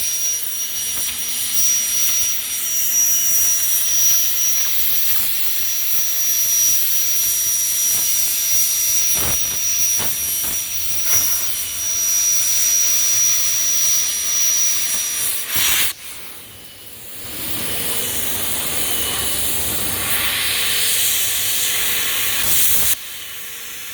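A CNC plasma cutter's torch, fitted with a 200-amp nozzle, cutting steel plate: a loud, steady arc-and-air hiss with a thin high whine over it. It drops out about two-thirds of the way through, comes back about two seconds later, and cuts off abruptly near the end.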